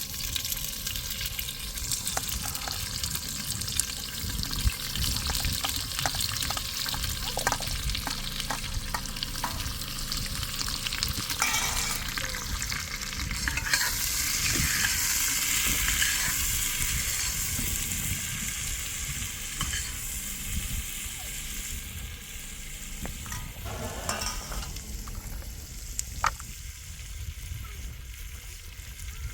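Food sizzling and frying in a pan: a steady hiss with scattered small crackles and clicks, swelling louder around the middle and easing off later.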